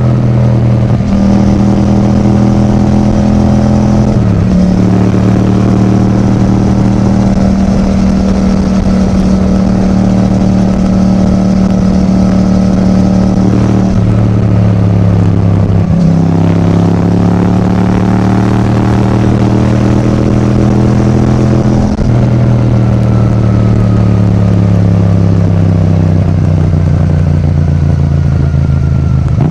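Yamaha MT-07's parallel-twin engine breathing through an Akrapovič titanium exhaust while riding. The engine note rises and falls with the throttle, with a few brief dips in pitch and a slow fall near the end.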